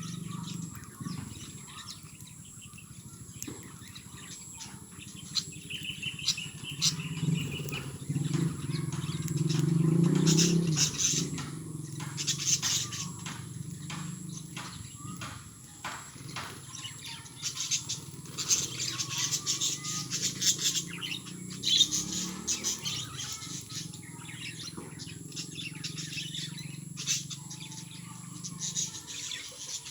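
Pet lovebirds chirping: many short, sharp high-pitched chirps in quick irregular runs, busier in the second half, over a steady low hum.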